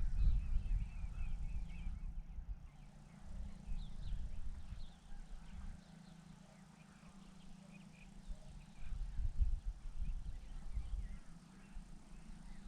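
Small birds giving short, scattered chirps and twitters, over a low rumble that swells and fades.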